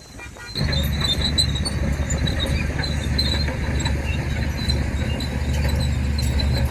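Crawler bulldozer working: a steady diesel engine drone with metallic squealing and clanking from the steel tracks, which comes in suddenly about half a second in.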